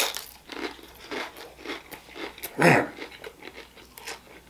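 Close-miked chewing and biting of a ranch-dipped sandwich: irregular wet mouth sounds, with one louder short mouth sound about two and a half seconds in.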